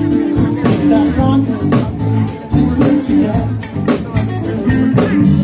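Live rock band playing a jam, with a drum kit keeping a steady beat under a walking bass line.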